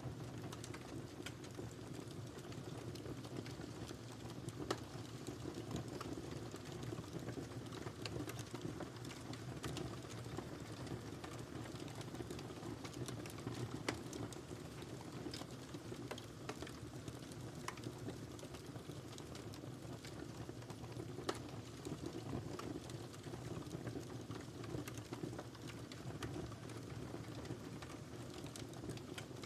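Wood fire burning in a fireplace: a steady low rumble of flames with frequent irregular crackles and pops, a few louder snaps scattered through.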